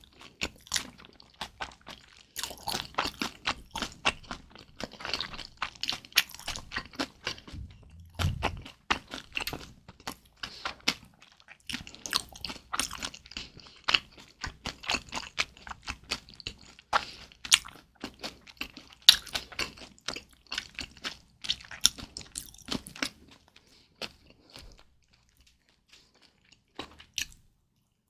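Close-miked chewing of kimchi dumplings: rapid wet clicks and crunching mouth sounds. There is a low thump about eight seconds in. The chewing thins out to a few faint clicks over the last few seconds.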